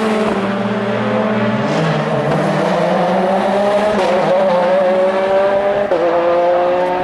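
Race car engine accelerating, its note climbing steadily, with a gear change about six seconds in and then climbing again.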